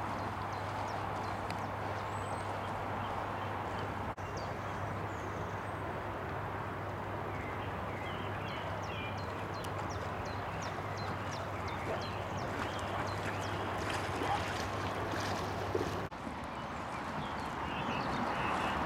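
Steady rushing outdoor noise with a low hum that stops about sixteen seconds in, and birds chirping throughout.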